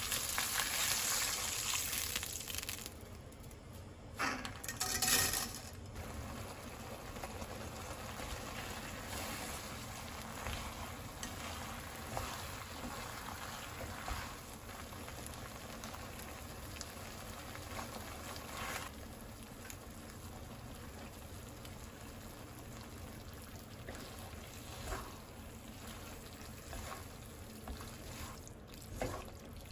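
Food sizzling in a pan, loud for the first two or three seconds, then a quieter steady sizzle with occasional light clicks and knocks.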